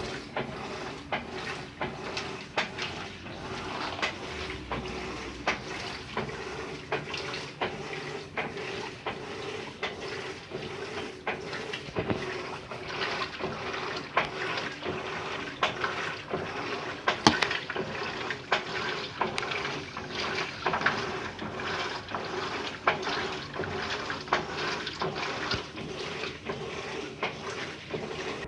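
Electrolux LT15F top-loading washing machine agitating a load of clothes in water, the water sloshing in regular strokes over a steady motor hum.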